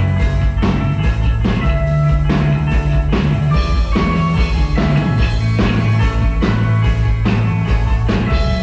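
Rock band playing live, an instrumental passage of a song with a steady drum beat, a strike about every 0.6 seconds, over held low notes.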